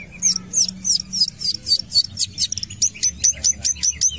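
Long-tailed shrike (cendet) singing in full voice: a fast run of short, high, squeaky chirps, many sweeping down in pitch, about five a second.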